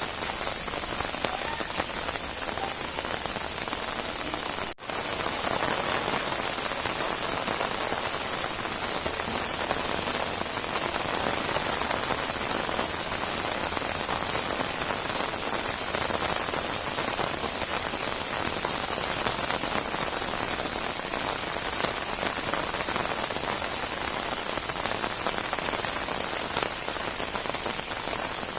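Rain falling steadily, a dense even patter of drops. The sound cuts out for a split second about five seconds in, then carries on unchanged.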